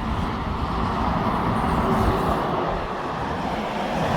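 Motorway traffic passing beneath a bridge: steady tyre and engine noise from lorries and cars, swelling slightly about a second or two in as a vehicle goes by.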